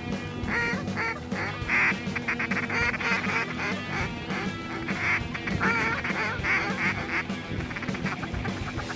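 A flock of geese honking, many short calls overlapping continuously, with background music underneath.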